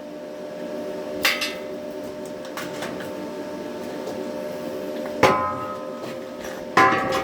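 Three ringing metallic clanks, the last two loudest, as the steel welded handle is flipped and set down on the metal, over a steady machine hum.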